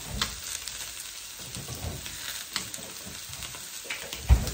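Vegetables and fish frying in butter, sizzling steadily in a stainless steel wok and frying pan, with a few sharp clicks. A low thump near the end.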